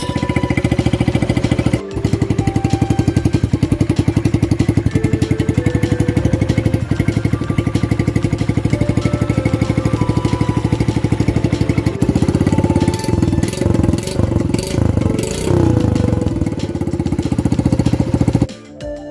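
Honda Monkey 50's single-cylinder four-stroke engine running through an aftermarket down-type straight-pipe muffler, an even pulsing idle. Between about two-thirds and three-quarters of the way through the throttle is blipped a few times, and the sound cuts off near the end.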